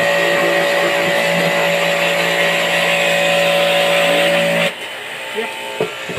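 Electric power tool motor running at a steady, constant speed, then switched off suddenly about three-quarters of the way through, followed by a few light knocks.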